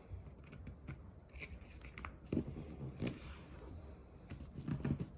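A sheet of paper being folded and creased by hand: scattered rustles and crinkles, louder about two and a half seconds in and again near the end.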